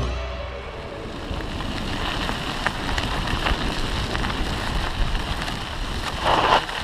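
Wind buffeting the microphone, an even rushing noise over a low rumble, with a louder gust about six and a half seconds in.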